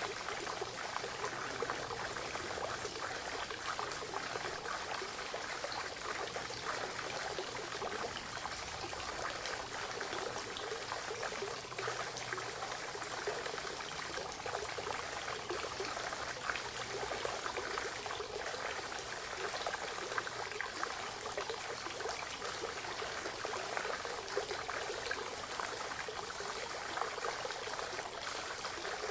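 Spring water running and trickling steadily into a forest pond, an even splashing babble without pause.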